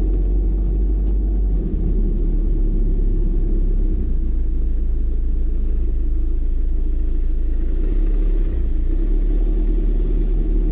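Steady low rumble of a car driving, its road and engine noise.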